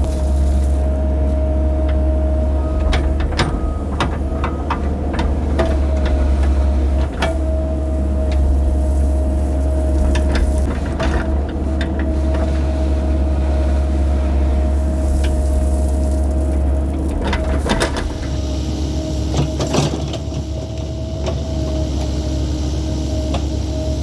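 Excavator's diesel engine running steadily under load as it digs a trench, with a constant higher tone over the low engine hum. Scattered knocks and scrapes from the bucket in the dirt come through, clustered a few seconds in, around the middle and near the end.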